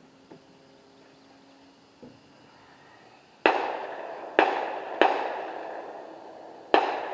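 Four gunshots in quick, uneven succession, starting about halfway through, each with a short ringing echo. Before them there are only a couple of faint clicks.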